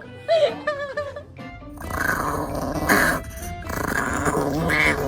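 A dog growling in long, rough stretches from about a second and a half in, over music.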